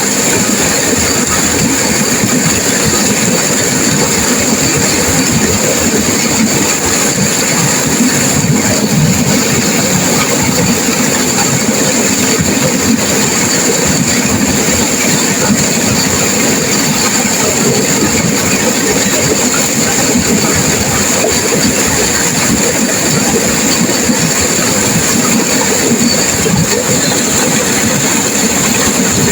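Turbulent river water rushing and crashing over rocks, a loud steady roar with no breaks.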